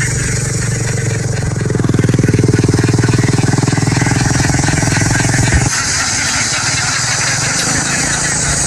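A small engine running, growing louder about two seconds in and dropping back abruptly near six seconds, with a steady high hiss behind it.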